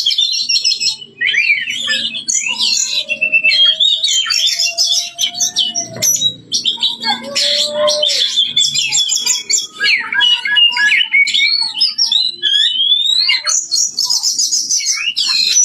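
Oriental magpie-robin (kacer) singing loudly without pause: a varied song of fast trills, sliding whistles and a few long lower whistled notes.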